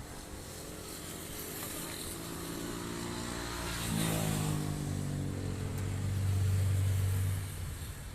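A motor vehicle drives past, its engine note rising as it nears and dropping in pitch about halfway through as it passes. A strong low engine hum holds for a few seconds and then falls away, over a steady hiss of wind.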